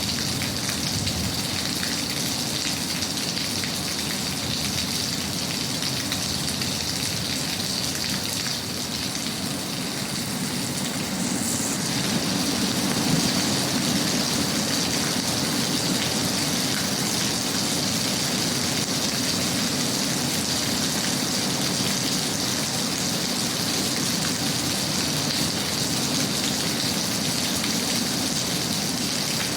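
Steady rain falling, an even patter and hiss that swells slightly about twelve seconds in.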